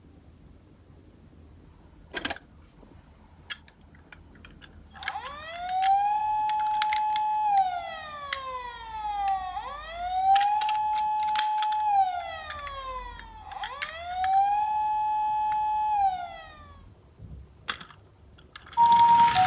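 Toy ambulance minicar's electronic siren wailing in three slow cycles, each rising, holding and then gliding down, with a few sharp clicks before and during it. Near the end a second siren starts, a fast two-tone hi-lo, over a sudden loud noise.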